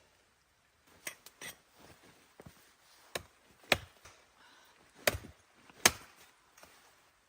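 About six sharp chopping strikes on wood, irregularly spaced, the loudest a little past halfway and near the end.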